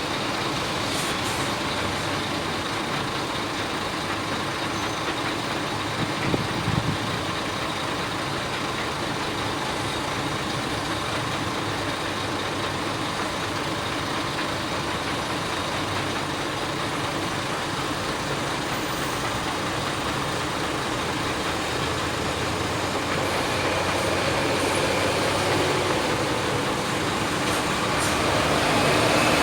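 Heavy diesel mining machinery running steadily, with a few short knocks about six seconds in, and the engine noise growing louder near the end.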